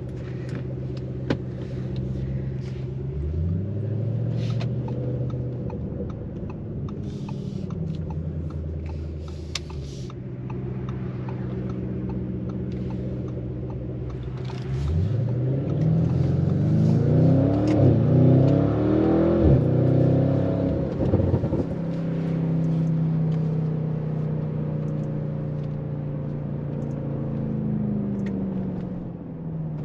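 Tuned Audi RS7 C8's twin-turbo 4.0-litre V8, heard from inside the cabin. It cruises steadily, with a brief rise in revs about three seconds in. From about fifteen seconds in it pulls hard under full throttle, the revs climbing and dropping back several times through quick upshifts, then it settles to a steady cruise that slowly winds down near the end.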